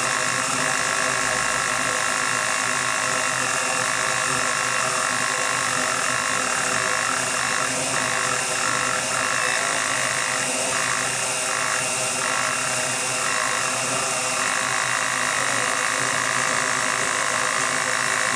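DJI Mavic Mini quadcopter's small brushless motors spinning steadily without propellers, a continuous whine with a rattle from one motor. The owner suspects a failing bearing in that motor, or its speed controller.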